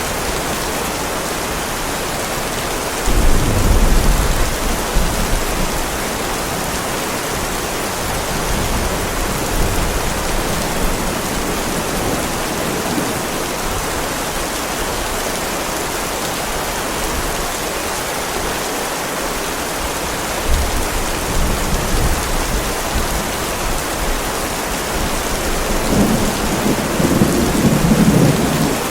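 Heavy rain falling steadily on a driveway, with thunder rumbling three times: about three seconds in, around twenty seconds in, and loudest near the end.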